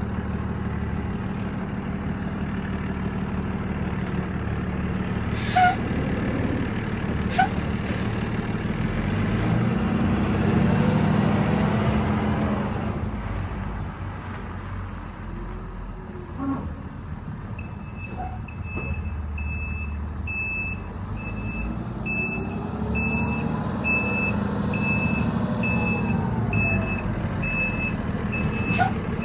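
Cummins ISB 6.7-litre six-cylinder turbo diesel in a dump truck running, revved up and back down twice. Two sharp clicks come early on. A backup alarm starts beeping steadily about 18 seconds in.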